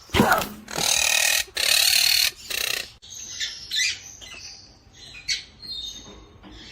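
A pet bird calling: two loud harsh calls about 1 and 2 seconds in, followed by a run of shorter, quieter chirps.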